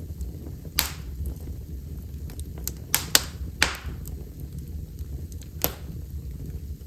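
Wood fire burning in a fireplace: a handful of sharp crackles and pops, the loudest about a second in, around three seconds and near six seconds, with smaller ticks between them over a steady low rumble of the flames.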